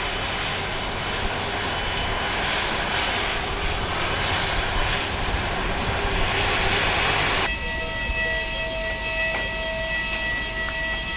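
Jet airliner engines running with a loud, even rush. About seven and a half seconds in it cuts abruptly to a steadier engine whine with several held tones.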